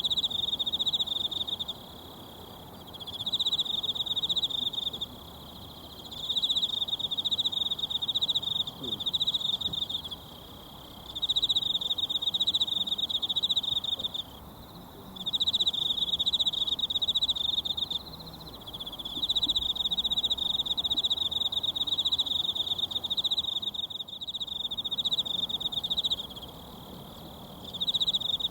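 An insect trilling in repeated high, pulsing phrases of a few seconds each with short pauses, over the steady low rush of a mountain stream.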